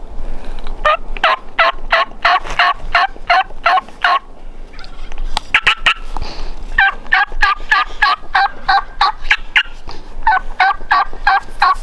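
Turkey yelping: three runs of evenly spaced yelps, about three a second, with a few short sharp notes between the first two runs.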